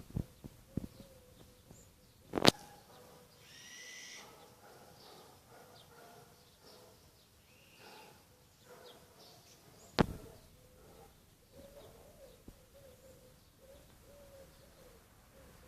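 Faint bird calls over a quiet background, with two sharp knocks about two and a half seconds in and again about ten seconds in.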